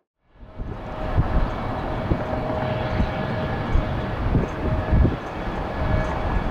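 Jet engines of a Mitsubishi CRJ-900 regional jet running with a steady rumble and a thin whine, fading in after a brief silence at the start. Gusts of wind buffet the microphone with irregular low thumps.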